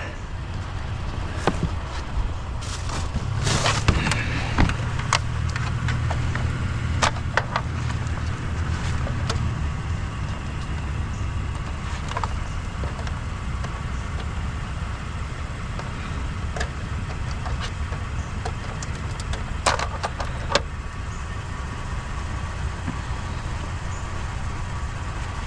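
A car engine idling steadily, with a low hum that swells for several seconds early on, and occasional clunks and knocks of objects being handled.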